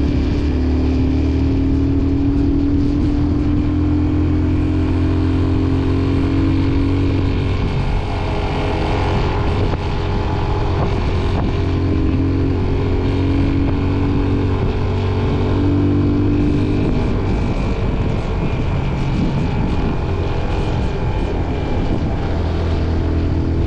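Motorcycle engine running steadily under way, its pitch wavering slightly up and down with the throttle.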